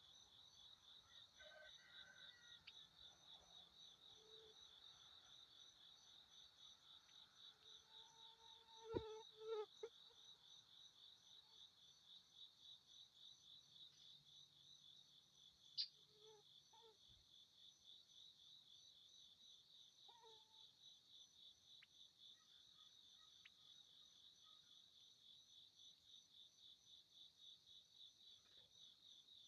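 Insects chirping in a steady, fast-pulsing high trill, with a few brief faint calls and two sharp clicks, about nine and sixteen seconds in.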